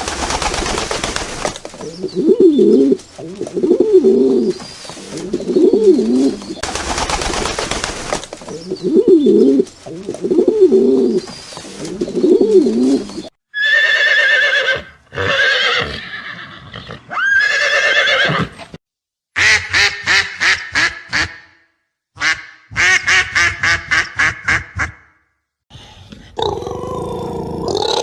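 A run of different animal and bird calls, one short recording cut straight to the next. The first is a low call repeated in short groups over about 13 seconds. After it come higher-pitched calls, two quick series of rapid pulsed calls, and a new call starting near the end.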